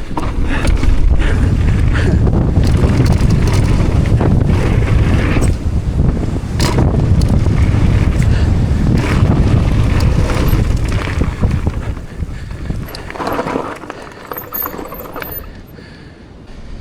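Mountain bike on a trail, heard from a bike- or rider-mounted action camera: heavy wind buffeting on the microphone with tyre rumble and the bike clattering over bumps. It is loud for about twelve seconds, then dies down.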